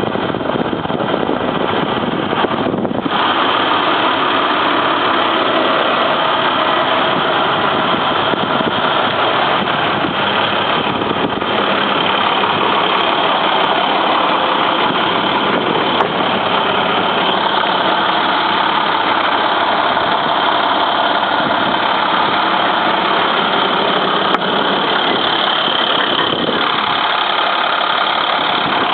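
Diesel engine of a 2012 International water truck running steadily, with a short dip about three seconds in.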